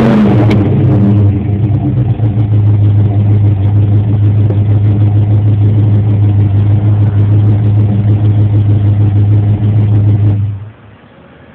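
1986 Oldsmobile Cutlass engine heard at the exhaust: a rev dies away in the first second or so, then it runs steadily at idle. Near the end it is shut off and the sound stops abruptly.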